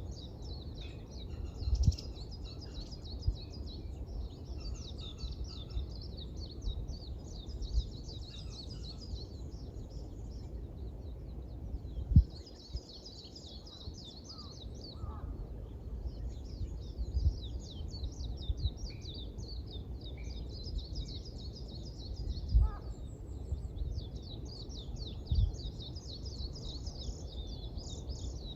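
Small songbirds chirping in dense, rapid bouts of high twittering, with short pauses between bouts. Underneath runs a steady low rumble of outdoor noise, broken by a few brief thumps, the loudest about halfway through.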